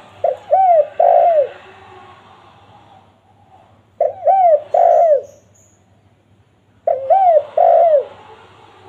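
Spotted dove (tekukur) cooing: three phrases about three seconds apart, each a short note followed by two longer arched coos.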